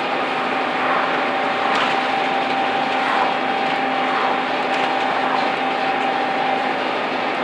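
Scania N230UD double-decker bus engine running steadily, with a constant high whine over a steady thrash: the vacuum-cleaner-like "hoover thrash" these buses are known for.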